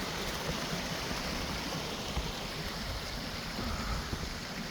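A mountain creek rushing steadily over rocks, an even wash of water noise.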